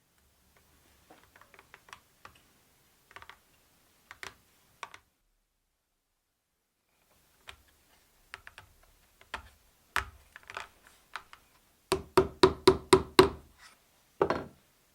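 Hand woodworking knocks and taps on wood: scattered light taps and clicks, then, after a short dead-silent gap, a quick run of about seven sharp knocks, roughly five a second, followed by one more knock.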